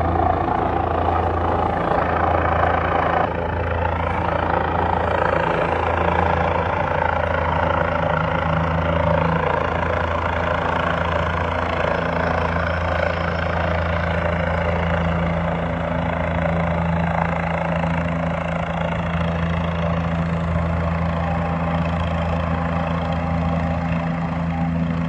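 Medical helicopter's rotor and turbine engine running loud and steady close by, with a constant low rotor hum.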